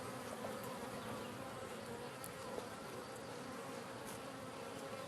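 Honey bees buzzing in a steady, even hum around an opened hive. The colony is calm and gentle rather than agitated.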